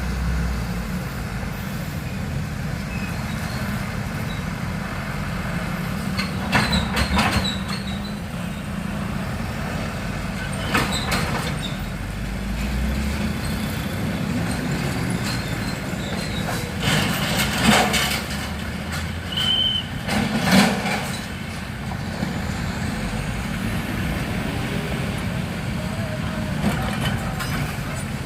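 Heavy road traffic of trucks and buses: diesel engines rumbling steadily, with several short air-brake hisses about 7, 11, 18 and 20 seconds in.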